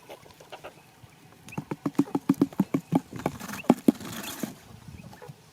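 A quick run of taps, about four a second, starting about a second and a half in and stopping near four seconds.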